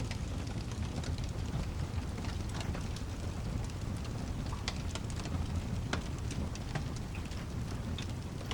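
Layered ambience of steady rain over a continuous low rumble, with scattered sharp pops and crackles from a fireplace.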